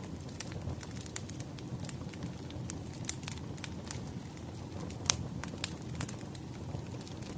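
Wood fire crackling: a steady low rumble of burning logs with scattered sharp pops and snaps, the loudest about five seconds in.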